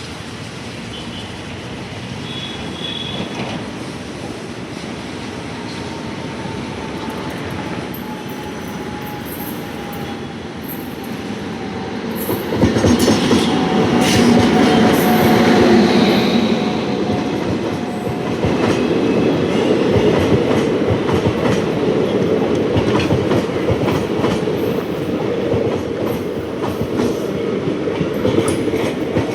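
A train approaching and passing close by: it grows louder over the first twelve seconds, then becomes suddenly loud as it reaches the spot, with wheels clattering over the rail joints as the cars roll past.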